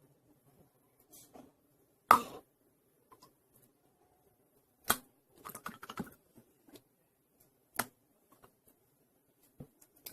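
Glitter slime being squished and handled by hand: scattered short clicks and squishes, the loudest about two seconds in and again about five seconds in.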